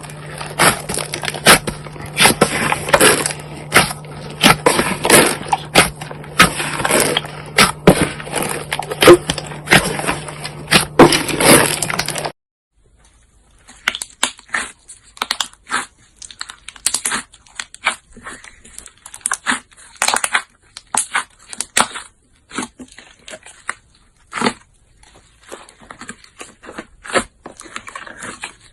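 Slime being kneaded and squeezed by hand, giving rapid crackling pops and clicks over a steady low hum. About twelve seconds in it cuts to another slime clip, quieter, with sparser pops.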